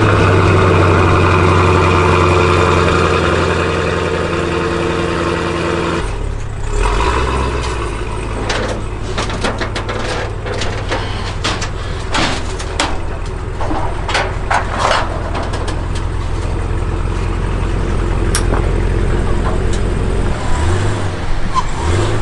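Supercharged 6.2-litre V8 of a Cadillac CT5-V Blackwing running, a strong steady idle for the first six seconds, then dropping lower as the car reverses, with the throttle body opening and closing and a supercharger whine. A run of sharp clanks comes in the middle as the car rolls down the transport carrier's metal ramps.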